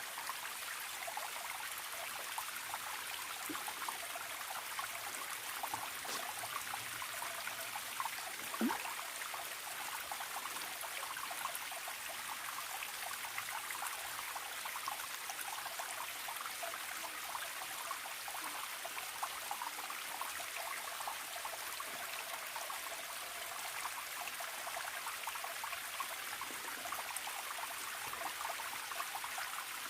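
Small forest stream trickling and gurgling steadily, with many small droplet splashes and one louder plop about eight and a half seconds in.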